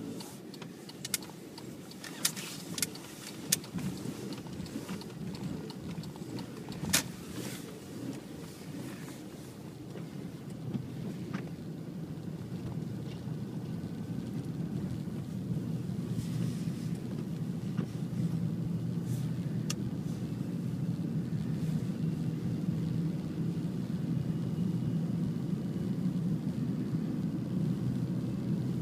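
A steady low rumble that slowly grows louder, with a few sharp clicks in the first several seconds.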